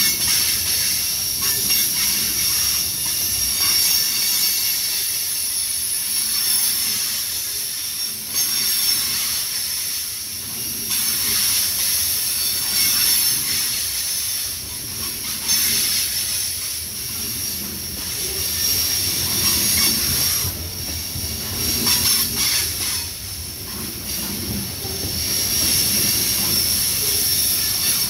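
Loaded tank cars of a CSX fuel train rolling past close by on a curve, the wheels giving a steady high squeal and hiss against the rails, with occasional sharp clicks.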